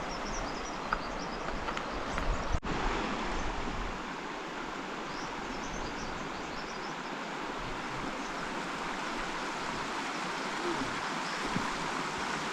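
River water rushing steadily, with a momentary dropout about two and a half seconds in.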